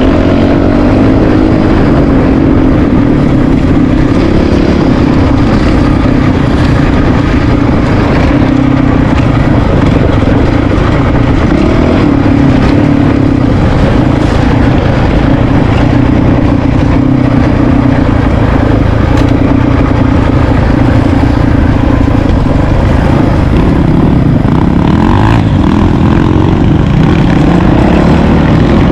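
Single-cylinder dual-sport motorcycle engine running on the move at fairly steady revs, with small rises and falls in pitch, under heavy wind noise on the microphone.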